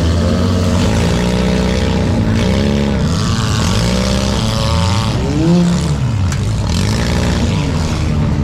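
Several four-cylinder demolition derby cars' engines revving up and falling back over one another as the cars accelerate and back off. There is a brief sharp knock about six seconds in.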